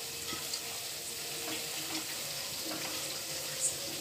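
Food frying in hot oil, a steady faint sizzle with a few small clicks.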